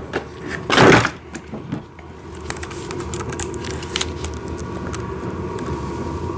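A short loud rustle about a second in, then a power drill running steadily from about two seconds in, driving screws.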